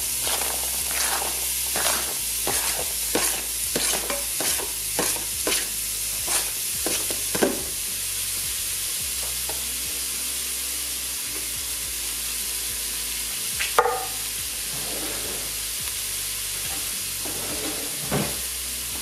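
Diced onion and garlic sizzling in hot olive oil in an Instant Pot's stainless steel inner pot on sauté mode. Frequent sharp crackles over the first half settle into a steadier sizzle, with a single click about two-thirds through.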